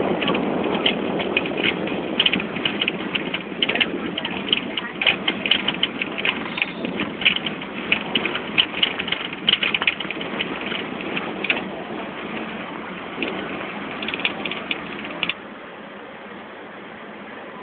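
Hong Kong double-decker tram running, a steady rumble with fast, irregular clacking and rattling. The noise drops off suddenly about 15 seconds in.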